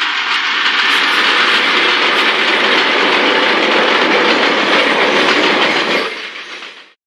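Diesel grain train passing close by: the last of four EMD 49 class locomotives goes past, then empty grain hopper wagons roll by with a steady loud rolling noise from wheels on the rails. The sound fades out near the end.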